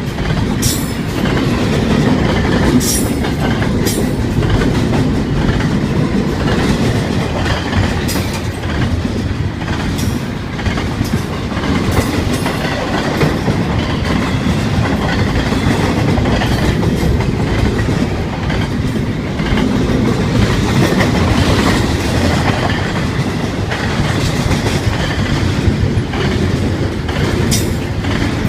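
Ferromex freight train cars rolling past: a steady, loud rumble of wheels on rail, with sharp clacks now and then as wheels cross rail joints.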